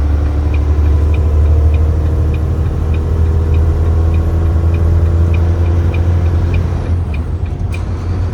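Heavy truck engine running steadily at road speed with a deep rumble, while the turn signal clicks about twice a second and stops near the end.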